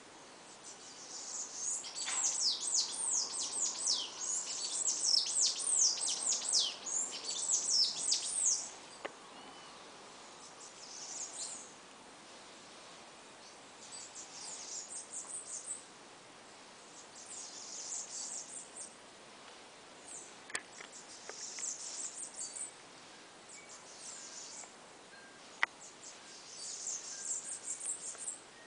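Small songbird singing outdoors: a long run of fast, high, downward-sliding notes for the first eight seconds or so, then shorter bursts of high notes every few seconds. A few faint sharp clicks stand out in between.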